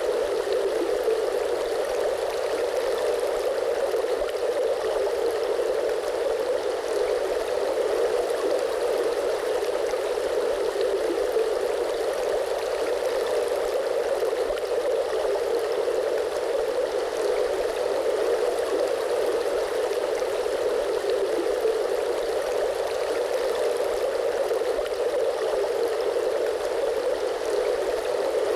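Flowing water: a steady, even rush of a stream, strongest in the middle-low range, with no breaks or splashes.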